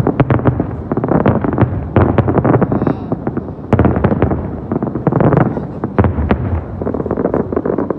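A fireworks display: a rapid, dense run of bangs and crackling shell bursts, in waves that swell and ease every second or two, over a continuous deep rumble.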